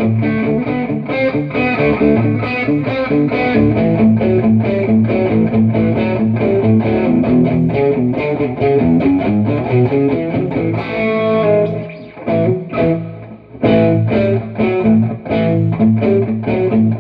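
Electric guitar distorted by a Boss Metal Zone pedal and played through a Mooer Radar cabinet simulator, a run of fast picked notes that breaks off briefly a few times before the playing picks up again.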